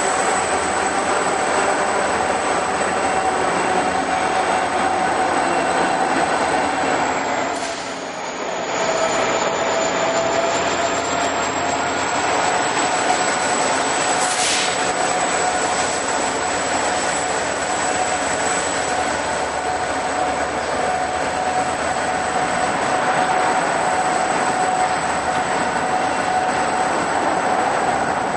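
Passenger train running by on the rails: a steady rumble of wheel and rail noise with a constant whine over it, dipping briefly about eight seconds in.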